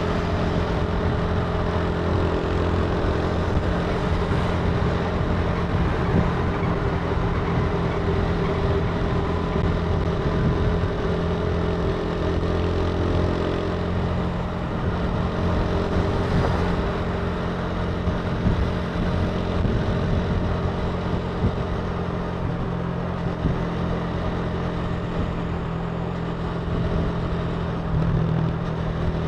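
Italika TC300 motorcycle engine running at a fairly steady pace while riding, under a steady hiss of wind and road noise.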